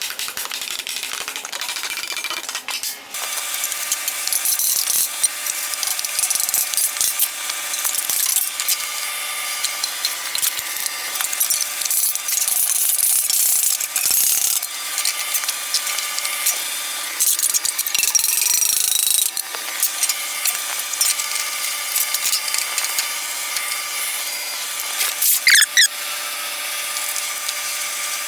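Steel sheet-metal panel being worked by hand: a continuous scraping, rasping noise with a steady metallic ring.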